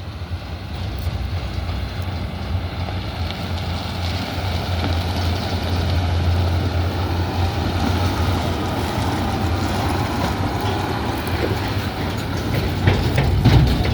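Tractor engine running as it draws near hauling a grain trailer, growing louder over the first half and then holding steady, with a few knocks or rattles near the end.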